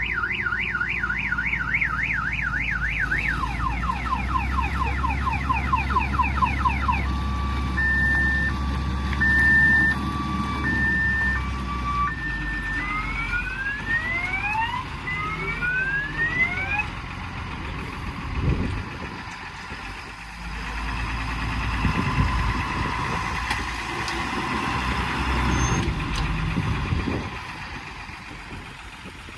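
An electronic multi-tone siren, of the car-alarm kind, cycles through its patterns: a fast warble, then slower sweeping wails, a two-tone hi-lo beep and rising whoops. Under it an engine runs steadily. In the second half the siren stops and a few thumps come through a noisier stretch.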